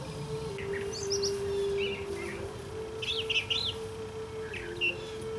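Wild birds chirping in the woods: short, high calls every second or so. Under them runs a faint steady low tone that shifts between two close pitches.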